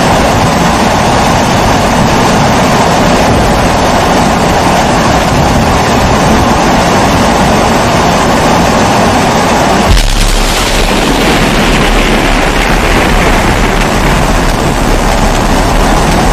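Pressure kerosene stove (babour) burner running with a loud, steady rushing noise. About ten seconds in there is a sharp click, after which the rush sounds deeper.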